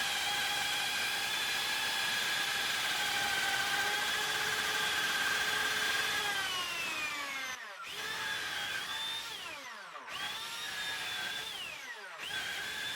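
Handheld electric power tool, drill-like, running steadily at speed with a high whine. Near the middle it is let off and winds down, then is triggered back up, stopping and restarting about three times.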